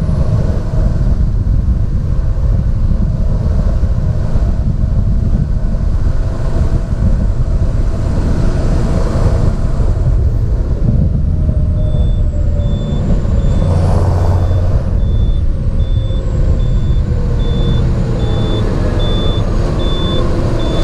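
John Deere 7430 Premium tractor's six-cylinder diesel running steadily under way, with a high whine that glides up and down. From about halfway through, a steady electronic beeping repeats at roughly one and a half beeps a second.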